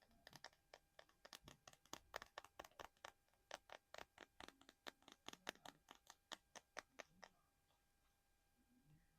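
Quick, quiet tapping on a small hard object, about four sharp taps a second for some seven seconds, then stopping.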